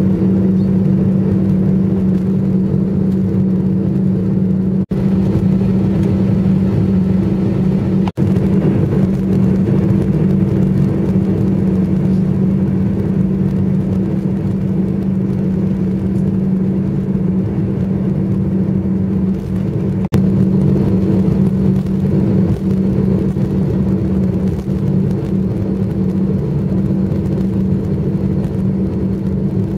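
Jet airliner cabin noise while taxiing after landing: a steady hum from the idling engines and cabin air with a strong low tone. The sound cuts out very briefly twice, about five and eight seconds in.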